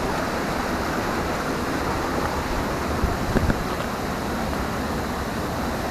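Steady rushing of a small waterfall close by, with a couple of faint knocks about three seconds in.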